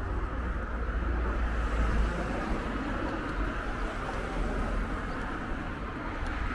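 City street ambience: a steady wash of road traffic noise, with wind buffeting the microphone in a low, gusting rumble.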